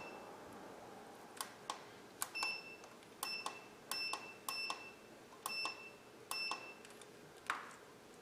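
Digital multimeter giving about six short, high electronic beeps, each starting with a click, with a few bare clicks between them and a single sharper knock near the end.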